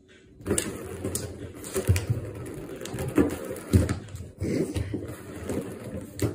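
Plastic ball rattling and rolling around a cat's circular track toy, with irregular clicks and knocks as a cat swats at it and lands on the toy. The clatter starts about half a second in.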